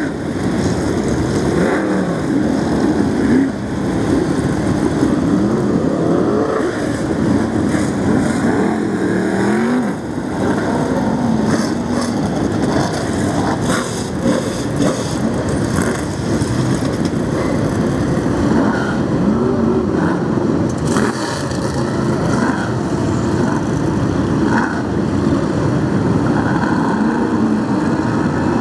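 Brisca F1 stock cars racing, their engines running hard and rising and falling in pitch again and again as they accelerate and lift off.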